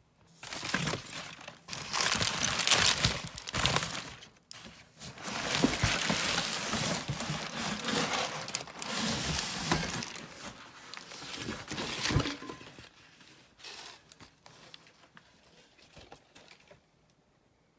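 Packaging around a newly delivered wheel being handled and pulled away, crinkling and rustling in uneven surges, dying down to a few small rustles after about twelve seconds.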